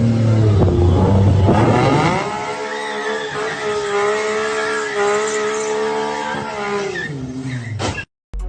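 A car engine revs up hard over about two seconds, holds a steady high pitch, then drops away and cuts off suddenly near the end.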